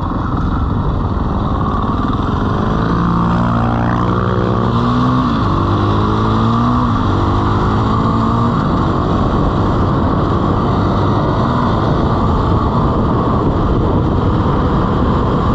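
Dirt bike engine revving hard, its pitch climbing several times as it pulls through the gears, from about 3 to 9 seconds in, over a steady rushing noise.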